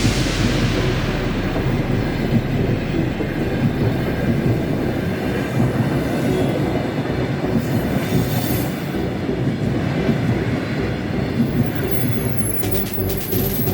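A train running past on rails: a steady rumble with rapid regular wheel clatter, and sharper clicking near the end.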